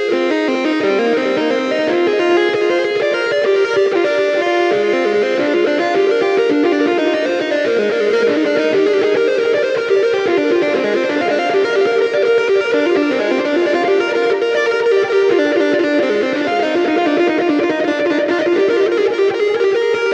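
Electric guitar music, fast runs of notes played continuously.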